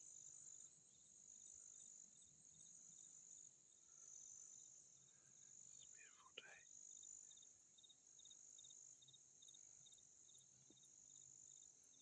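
Faint insect chorus of crickets: a steady high trill that swells about once a second over a faster fine ticking. A short falling-then-rising whistle sounds about six seconds in.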